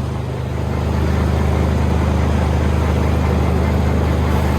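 Combine harvester engine running steadily, a loud even drone, dipping slightly in level just at the start and then holding.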